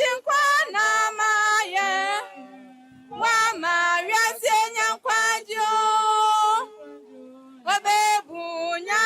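A high voice singing unaccompanied, in held notes with a wavering vibrato, phrase after phrase with short breaks between them.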